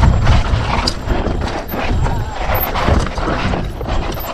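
Mountain bike riding fast over a rough dirt trail: wind rumbling on the action camera's microphone, with quick, irregular knocks and rattles from the bike jolting over bumps.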